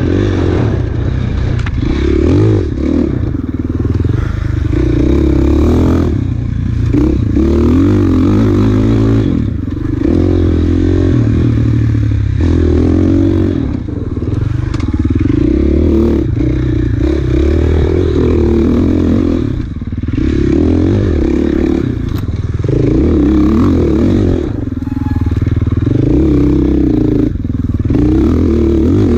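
KTM enduro motorcycle engine revving hard through the gears, the pitch climbing and falling again and again, with short dips every few seconds as the throttle is rolled off. Clatter and scraping from the bike over rough ground run underneath.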